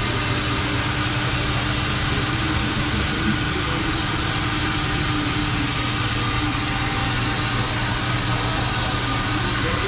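Perodua Kelisa's small three-cylinder engine idling with a steady, even hum.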